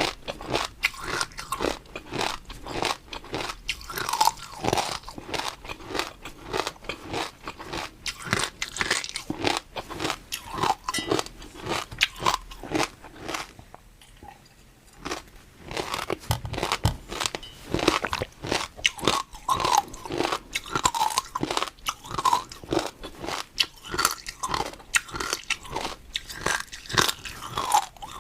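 Close-miked chewing of crunchy food: rapid, dense crunches with a short pause about halfway through.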